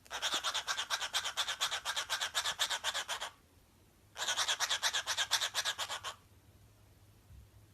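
Caged pet bird giving a fast, scratchy chattering trill in two bursts, the first about three seconds long and the second about two seconds long.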